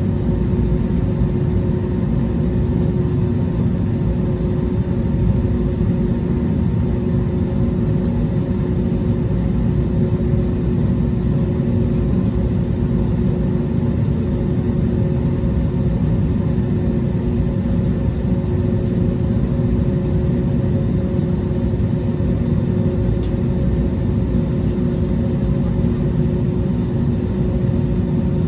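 Airbus A321neo airliner running steadily: a loud low rumble with a few steady hums that hold one pitch throughout, with no spool-up or change.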